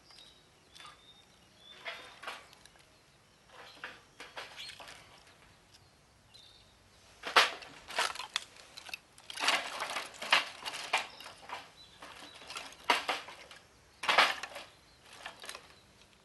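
Wood fire crackling in a Picogrill 498 fire pit: irregular sharp snaps and pops, sparse at first, then denser and louder from about halfway through.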